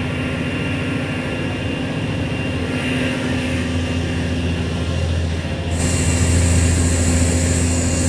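Heavy rain and high wind over a steady low engine hum on a mechanised fishing boat. The rain-and-wind hiss jumps sharply louder about six seconds in and stays that way.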